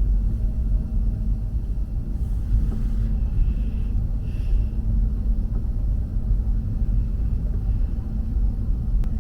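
Steady low rumble of a Renfe Avant high-speed train running, heard from inside the passenger cabin, with a faint steady hum under it.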